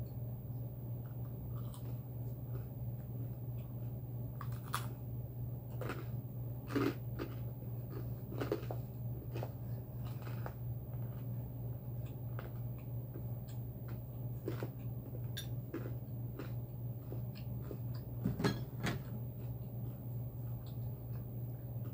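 Chewing and wet mouth smacks while eating spaghetti alfredo, with a few short sharp clicks scattered through, over a steady low hum.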